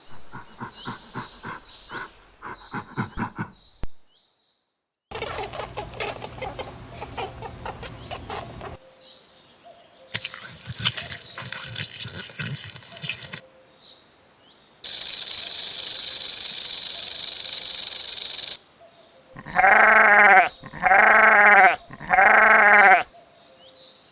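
A run of short animal-noise clips separated by brief gaps, ending in three loud bleats, each about a second long.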